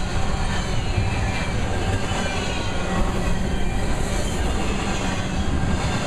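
Double-stack intermodal well cars rolling past close by: the steady, loud rumble of steel wheels running on the rails.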